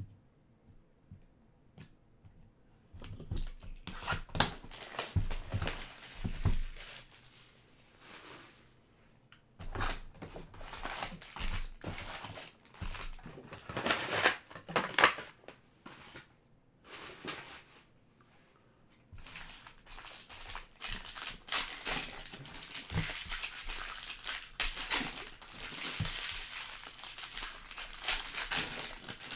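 Plastic wrapping and card-pack wrappers crinkling and tearing as a trading-card hobby box and its packs are opened by hand. It comes in three bouts with short quiet gaps between them.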